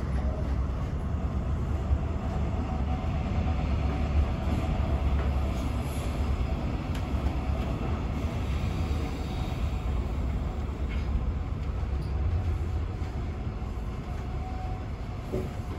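Passenger train running, heard from inside the carriage: a steady low rumble of the wheels and running gear on the track, with a faint higher whine through the middle.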